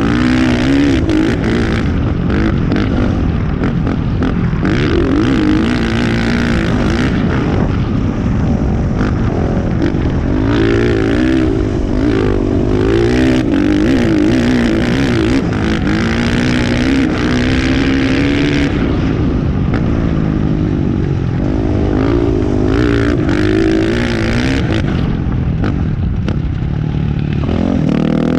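Motocross bike engine heard from a helmet-mounted camera while riding a lap, revving up and dropping back again and again as the rider works the throttle and gears, with a steady low rumble underneath.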